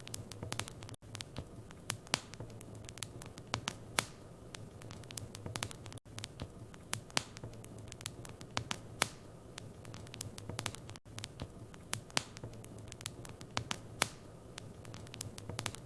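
Wood fire in a fireplace crackling: irregular sharp pops and snaps over a low steady hum, with a brief dropout about every five seconds.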